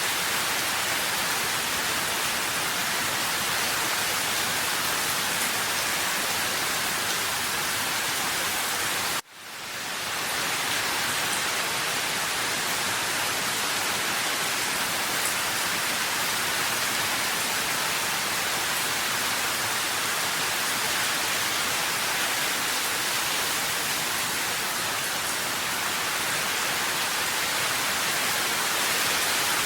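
Steady rain, a dense even hiss. About nine seconds in it cuts out abruptly, then fades back in over about a second.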